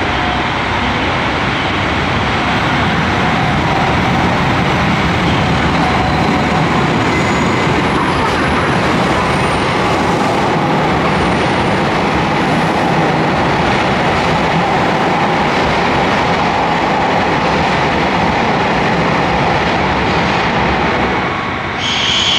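A train running in a station, a loud steady rumble of wheels and running gear. Just before the end a brief high tone begins.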